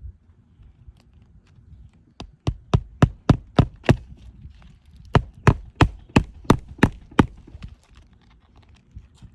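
Hammer driving nails into roof shingles: two runs of about seven quick blows, roughly three a second, with a short pause between.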